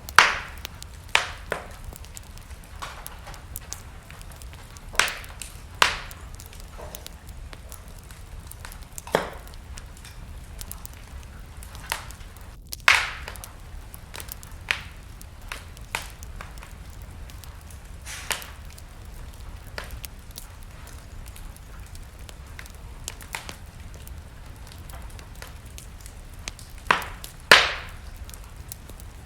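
Wood fire burning in a fireplace: sharp, irregular crackles and pops every few seconds over a steady low rumble, the loudest cracks just after the start and near the end.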